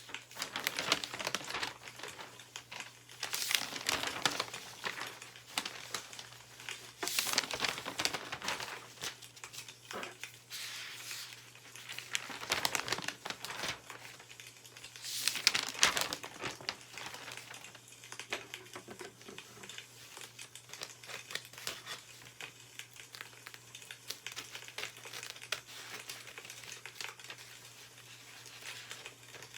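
Newspaper pages rustling as they are handled and turned, in bursts every few seconds during the first half and quieter later, with faint scattered clicks in between.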